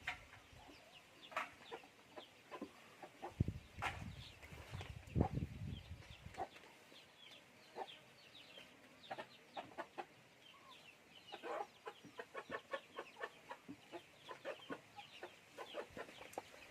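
Chickens clucking, with scattered short clicks and knocks from handling the wooden beehive; a few heavier low thumps come in the first six seconds.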